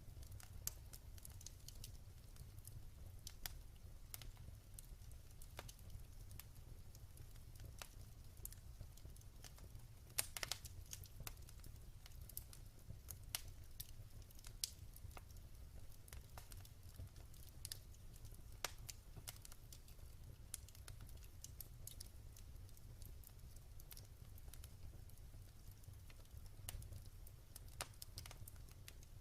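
Wood fire burning in a fireplace: irregular sharp crackles and pops over a soft low rumble of the flames, with a cluster of louder pops about ten seconds in.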